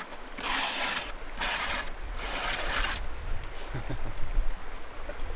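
Stiff, hard leaves of a plant rustling as they are touched, in three separate bursts in the first three seconds, over a steady low rumble.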